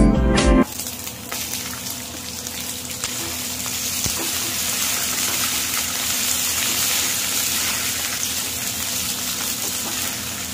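French beans sizzling steadily in hot oil in a wok as they are stirred with a wooden spatula. Background music cuts off just under a second in, when the sizzling starts.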